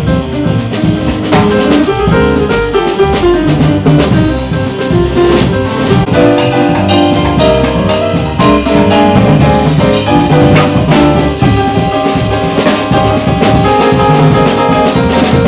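Jazz piano trio playing: piano, double bass and drum kit, with steady cymbal and drum strokes under the piano's notes.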